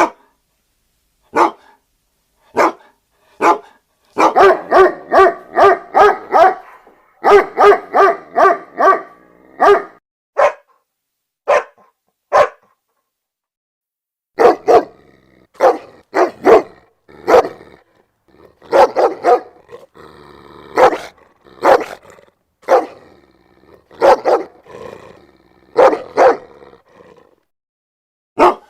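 A dog barking loudly. It starts with single barks about a second apart, then gives two fast runs of rapid barks. After a pause of about two seconds, it goes on with barks spaced roughly every second.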